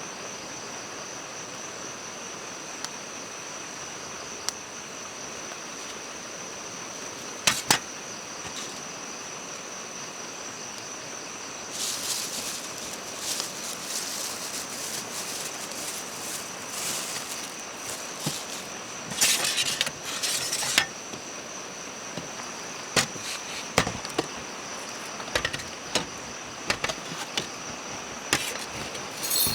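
Crickets chirring steadily in one high tone over a faint hiss. From about twelve seconds in come bursts of rustling, then a run of sharp clicks and knocks near the end.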